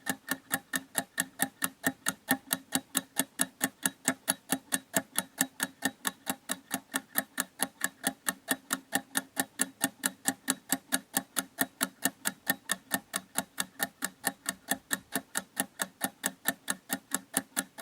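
Clock ticking steadily and evenly, about four ticks a second.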